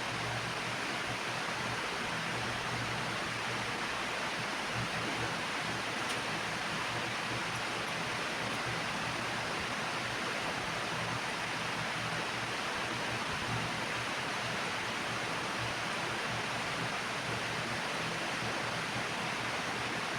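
Steady, even hiss of background noise with a faint low hum, unchanging throughout, with no distinct events.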